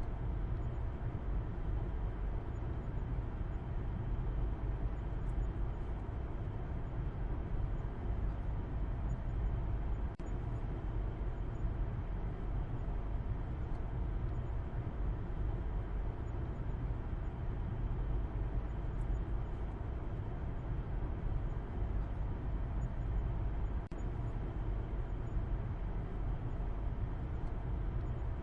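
A car driving at a steady pace: an unbroken low rumble of road and engine noise with no change in speed.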